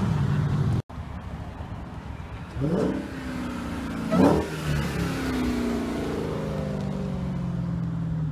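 Dodge Challenger accelerating hard past, its engine revving up sharply twice, about three and four seconds in, the second the loudest. It then runs on steadily as the car pulls away.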